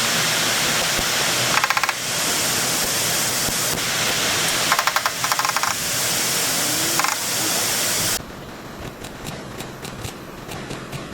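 Compressed air from a body-shop air tool hissing steadily, with three short bursts of very rapid rattling; the hiss cuts off about eight seconds in, leaving a few light clicks.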